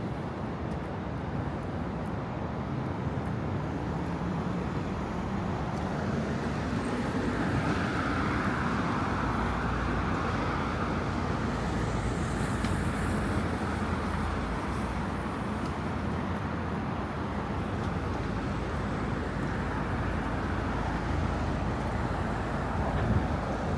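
City street traffic: a steady wash of passing cars and engine hum, swelling as a vehicle goes by about eight seconds in.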